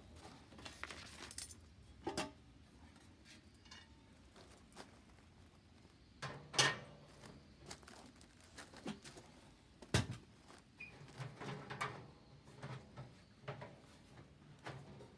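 Irregular knocks and clicks, with sharper ones about two, six and a half and ten seconds in.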